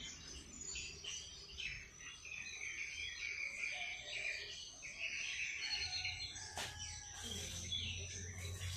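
Several small songbirds chirping and twittering over one another, with a sharp click about six and a half seconds in.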